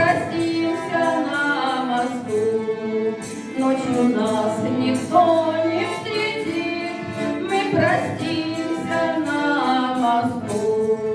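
Music: a female voice singing a slow song with accompaniment and a steady jingling percussion beat.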